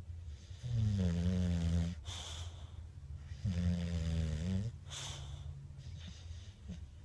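Bulldog snoring: two long, low, buzzing snores about two and a half seconds apart, each followed by a short airy hiss of breath.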